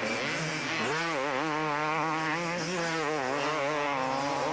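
250cc two-stroke motocross motorcycles racing, engines revving hard with the pitch wavering rapidly up and down as the throttle is worked, over a steadier low engine note.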